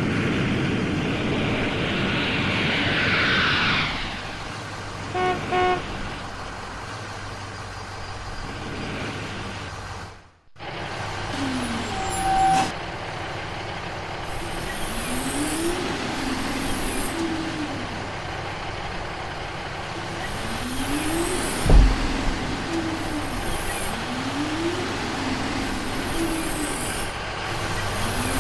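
Cartoon vehicle sound effects: engine noise, then two short horn toots, later a repeating sound that rises and falls in pitch about every four seconds, with one sharp thump near the middle of that stretch.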